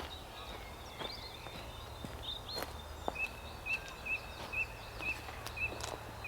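Songbirds calling outdoors. From about three seconds in, one bird repeats a short chirp about twice a second, while other birds call higher up, over a steady low background rumble.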